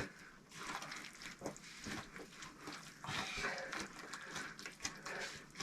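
Faint, irregular scraping and small knocks of hand work with wet clay mortar and bricks.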